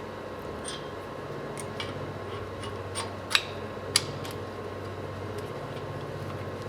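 A few light metallic clicks and clinks of brake hardware being handled as a disc brake caliper is fitted to the axle, the two sharpest a little after three seconds and at about four seconds in. A steady low hum runs underneath.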